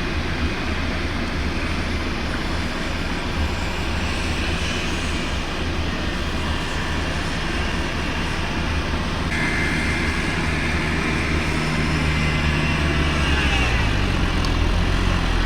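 A vehicle engine running steadily with a low hum. A higher whine joins a little past the middle, and the engine note drops in pitch near the end.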